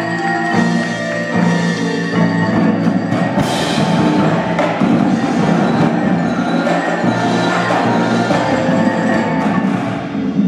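Indoor drumline (high school percussion ensemble) playing its show: ringing mallet keyboards with sustained pitched tones, layered with many sharp, rapid drum and wood-block-like strikes.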